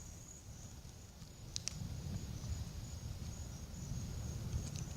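Crickets chirping steadily in a high, pulsing trill over a low rumbling noise that grows louder about two seconds in, with two short clicks, one about a second and a half in and one near the end.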